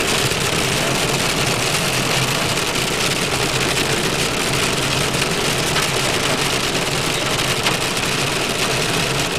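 Inside a moving car's cabin: rain beating steadily on the roof and windscreen over a low engine hum and the hiss of tyres on a wet road.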